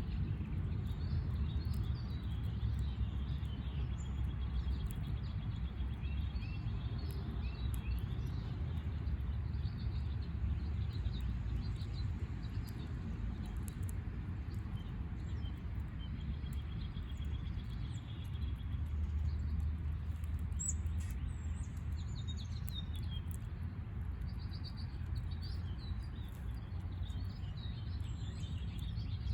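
Small backyard birds chirping and calling on and off, with a couple of brief trills, over a steady low rumble.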